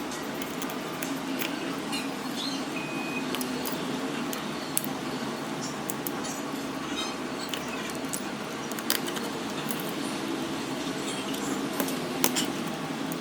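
Small metal repair tools clicking and clinking lightly against a phone and workbench, scattered irregular ticks over a steady background hum.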